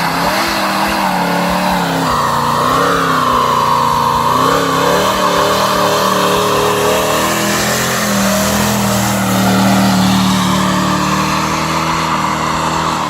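A car doing a burnout: the engine is held high in the revs, wavering, while the tyres spin and squeal, with a strong squeal from about two to four and a half seconds in. The revs drop sharply at the very end as it comes off the throttle.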